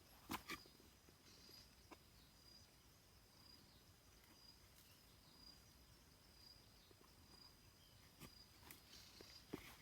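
Near silence with a faint, steady high-pitched insect drone, and a few soft clicks, most of them near the end.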